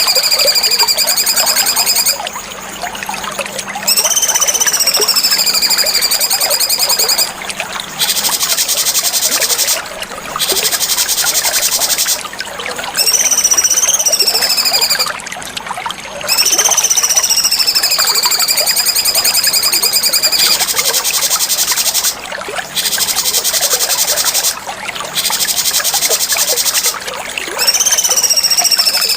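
Cucak cungkok bulbul singing over and over: a clear whistled phrase that rises, falls and levels off into a held note, alternating with stretches of fast, buzzy chattering. A steady hiss like trickling water runs underneath.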